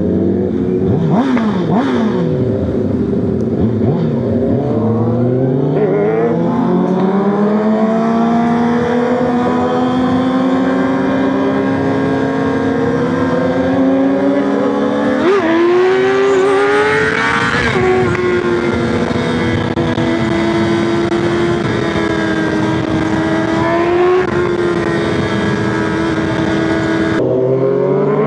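Motorcycle engine pulling at speed, its pitch climbing slowly over long stretches, dropping and rising again about fifteen seconds in, then holding a steady pitch.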